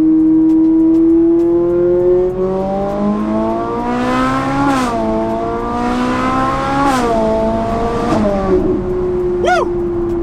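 Straight-piped Ferrari 458 Italia's V8 accelerating at part throttle, climbing in pitch through the gears with two quick upshifts about two seconds apart, then settling to a steady cruise.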